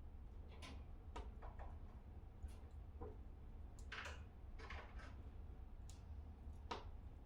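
Wood fire crackling in a fireplace: faint, irregular pops and snaps a second or so apart, over a steady low rumble.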